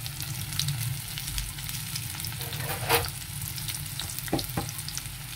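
Coated chicken pieces sizzling and crackling steadily in shallow hot oil in a stainless steel pan, with a few sharper clicks. The chicken is being refried over high heat to crisp it.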